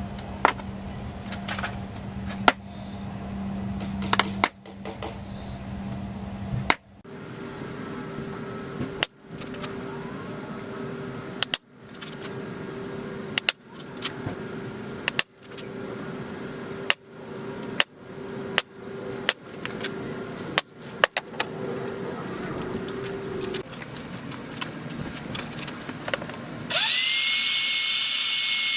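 Power drill running in a long series of short bursts, with clicks and abrupt breaks between them. Near the end a louder power tool starts with a quickly rising whine and runs steady and loud.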